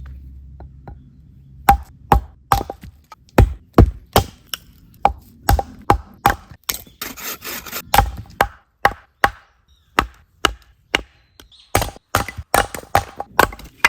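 Firewood being chopped: a quick, uneven run of sharp strikes, about two or three a second, starting a couple of seconds in.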